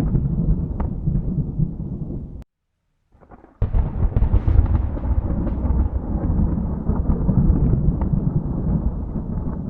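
Thunder rumbling deeply, then cutting off abruptly about two and a half seconds in; after about a second of near silence a new loud peal of thunder starts suddenly and rolls on.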